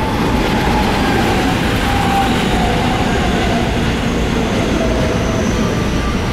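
Electric commuter train pulling in alongside a station platform and slowing: wheel and rail rumble, with a motor whine that falls gradually in pitch as it brakes.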